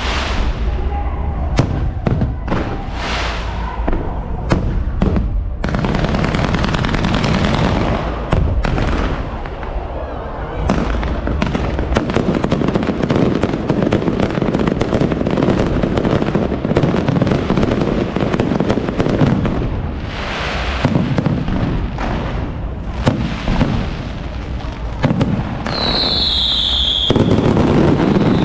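Fireworks going off in a rapid barrage: many sharp bangs of bursting shells over a dense crackle. Near the end a single whistle falls in pitch for about a second and a half.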